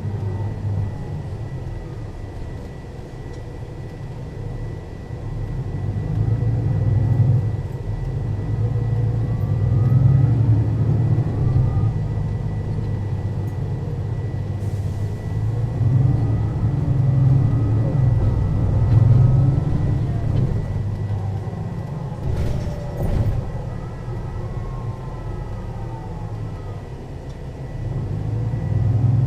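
Mercedes-Benz O 530 Citaro city bus under way, its diesel engine and ZF automatic gearbox rising and easing several times as it pulls and shifts, with a faint gearbox whine gliding upward. Two short hisses of air about halfway and two-thirds of the way through.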